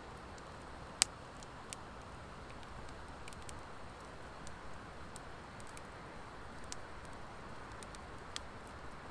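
Wood fire burning in an open fire pan with a soft steady hiss and sparse sharp pops and crackles, the loudest about a second in.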